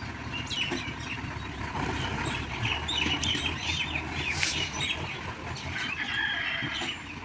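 Diesel engine of heavy earthmoving machinery running steadily, with birds chirping over it in short bursts of calls.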